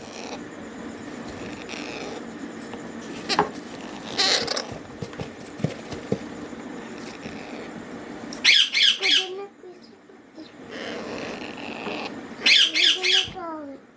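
Rose-ringed (green ringneck) parrot chicks squawking in a few short bursts of rapid begging calls at feeding time, the loudest about halfway and near the end, over a steady background hum.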